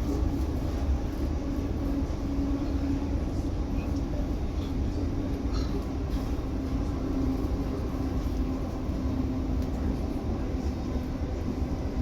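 Inside the carriage of an Oscar H set electric multiple-unit train: a steady low rumble with a constant hum.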